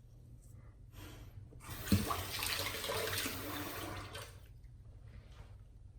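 Water from a tap running for about two and a half seconds, starting with a click about two seconds in, as water is added to a shaving brush to thin the lather.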